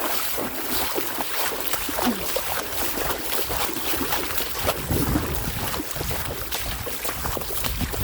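Steady rain falling, a constant hiss with many scattered sharp taps of drops.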